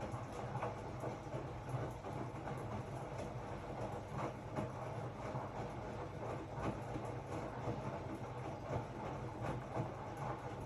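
Hotpoint-Ariston RSG 825 J washing machine running partway through a cycle: a steady low motor hum with irregular clicks and knocks from the turning drum.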